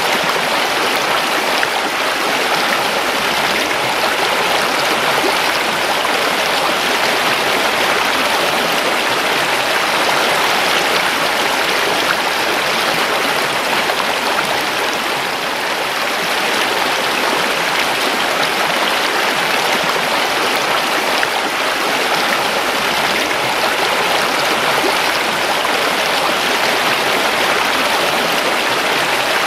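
A river flowing, its water rushing in a steady, even stream without let-up.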